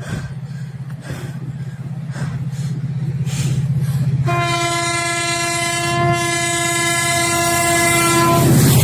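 Freight train locomotive approaching, its steady low engine rumble growing louder. About four seconds in it sounds one long, steady horn blast that holds for about four seconds and stops just before the end.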